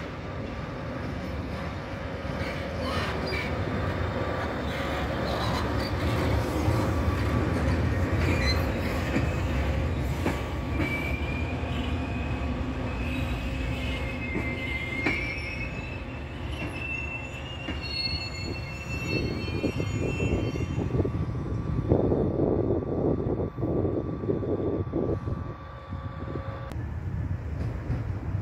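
Passenger coaches hauled by a shunting locomotive rolling slowly past with a low rumble. Through the middle, high-pitched wheel squeal rises and falls in pitch, then it gives way to a rhythmic clatter of wheels over rail joints.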